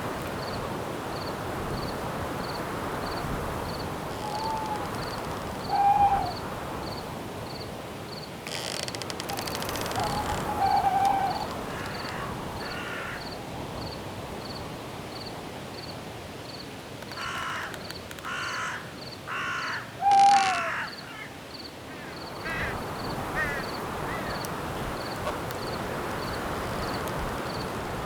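Night forest ambience: a steady wind hiss under an even pulse of cricket chirps, with a few short owl hoots scattered through and, about two-thirds of the way in, a run of four harsh bird calls.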